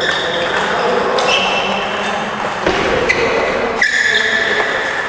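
Table tennis rally in a large hall: ball hits and bounces with sharp, ringing pings, several of them overlapping.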